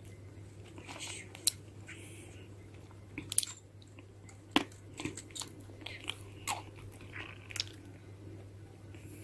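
Cats crunching dry food, in irregular sharp crunches and clicks, with a faint steady hum underneath.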